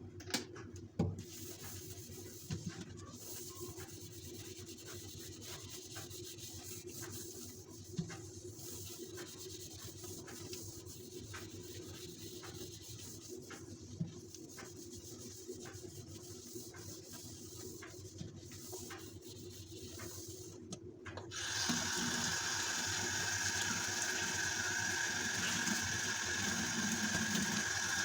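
Small clicks and knocks of kitchen items being handled, then a tap turned on near the end, with water running steadily into a sink.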